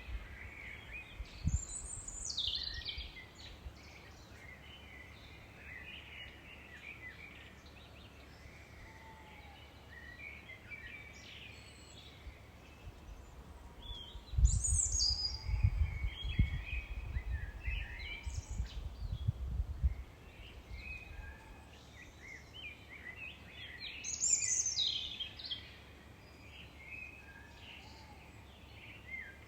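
Wild birds singing, with a loud song that starts with a high falling note and comes three times, about every ten seconds, amid softer chirps. A low rumble runs through the middle for several seconds.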